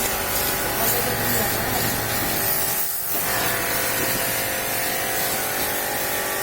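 Pressure washer spraying a steady jet of water, with a short break in the spray about three seconds in.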